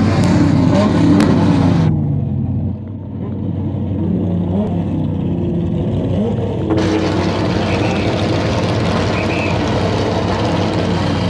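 V8 engine of a Chevrolet 400 running and being revved up and down several times while the car rolls slowly along the drag strip lane.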